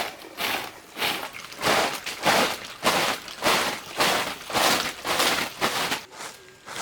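Rhythmic scraping or brushing strokes, about two a second, that fade off near the end.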